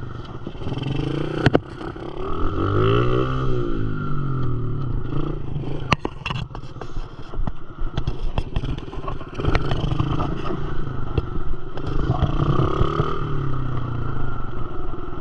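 Dirt bike engine revving, its pitch rising and falling several times, with scattered knocks and clatter.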